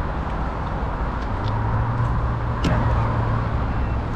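Road traffic running past: a steady roar of vehicles, with a low engine hum coming in about a second in and dropping away near the end, and a sharp click near the middle.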